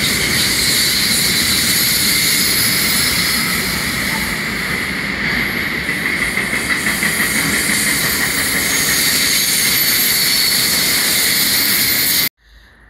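Train rolling past on the rails: a loud, steady rush of wheel and rail noise with a steady high squeal riding above it, cut off suddenly near the end.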